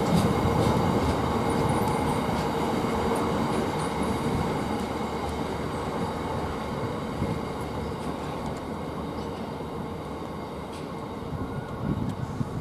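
Freight train pulling away along the line, a steady rail and wheel noise that slowly fades; a steady tone underneath dies away about four seconds in.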